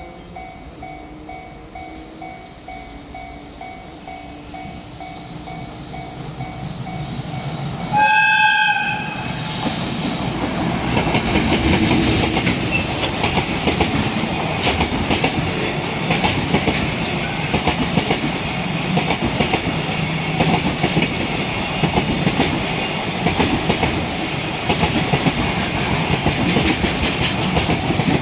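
A level-crossing warning bell rings in a quick repeating pattern as a train approaches and grows louder. About eight seconds in, the train sounds its horn once for about a second. It then passes over the crossing, a dense steady noise with the rhythmic clickety-clack of wheels over rail joints.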